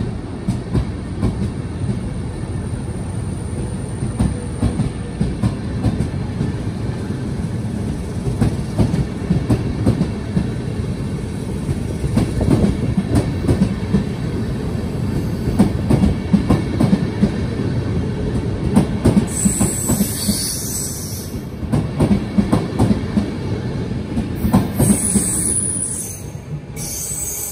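Intercity train hauled by NS 1700-class electric locomotive 1750 pulling out, its passenger coaches rolling past with a steady rumble and repeated knocking of wheels over the rails. Short high-pitched bursts come about twenty and twenty-five seconds in, and the sound falls away near the end as the last coach passes.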